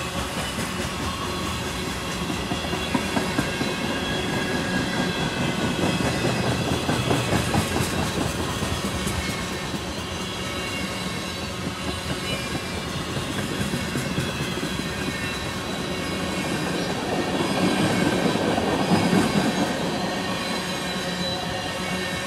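Freight cars of a passing train rolling by close up: steel wheels rumbling and clacking over the rails, with a thin, steady high squeal from the wheels. It swells louder twice, about seven seconds in and again near eighteen seconds.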